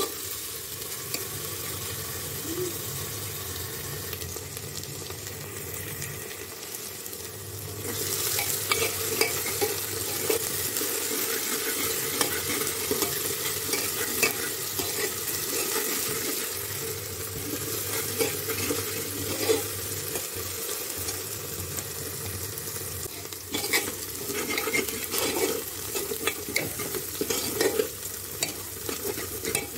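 Coarsely ground onion, ginger and garlic paste frying in mustard oil in a pressure cooker, sizzling steadily while a steel spoon stirs it and scrapes the bottom of the pot. The sizzle grows louder about eight seconds in. This is the stage where the masala is fried until it is done.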